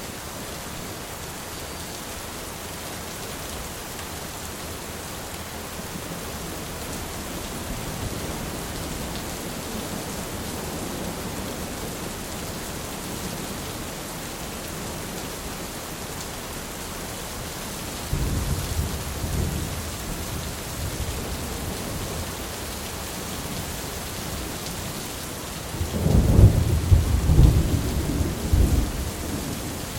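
Thunderstorm: steady rain hiss with thunder rolling. A low rumble comes about 18 seconds in, and a louder, rolling peal starts about 26 seconds in and lasts a few seconds.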